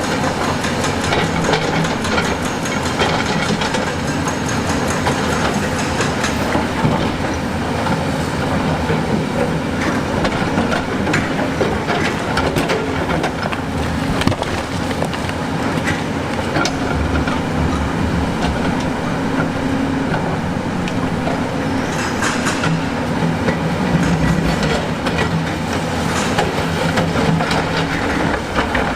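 Heavy construction machine's diesel engine running steadily under load, with continuous irregular clanking and knocking of rock and steel.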